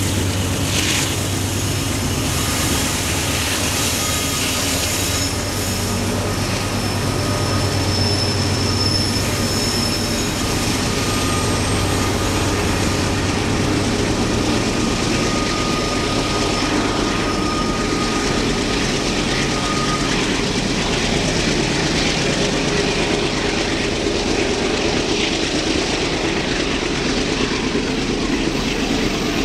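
Rear distributed-power unit of a loaded coal train, a GE AC4400CW diesel locomotive, working hard up the grade as it passes and moves away. Its low engine drone eases after about twelve seconds while the wheels squeal in long steady tones over the rumble of the cars.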